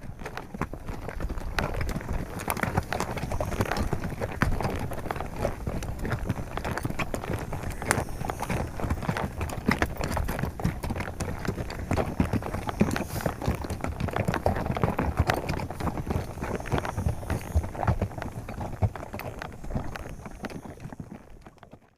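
Horse hooves clip-clopping in a quick, dense run of strikes. The sound swells in over the first couple of seconds and fades away near the end.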